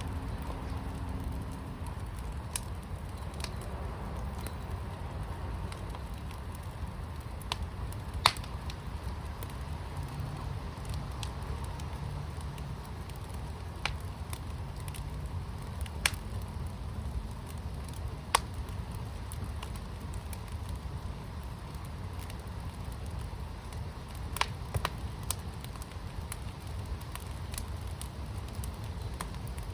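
Fire pit burning: a steady low rumble with scattered sharp pops and crackles, the loudest about 8, 16 and 18 seconds in.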